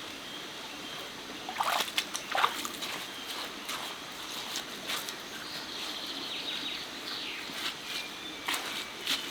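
Shallow stream water splashing and sloshing, with a few sharp splashes about two seconds in and lighter splashes scattered after, over a steady hiss of running water.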